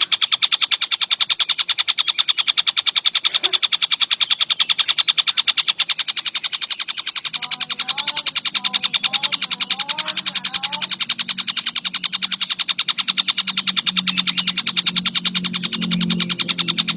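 Tengkek buto kingfisher calling in a fast, unbroken rattling trill of even ticks, strongest in the upper-middle range. A low steady hum joins about seven seconds in, with a few faint wavering notes around the middle.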